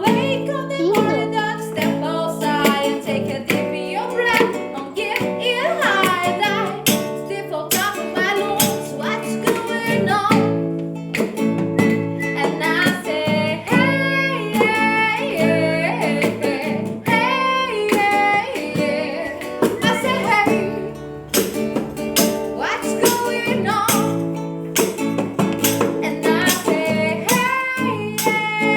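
Acoustic guitar strummed steadily while a woman sings along, a live amateur cover of a pop-rock song.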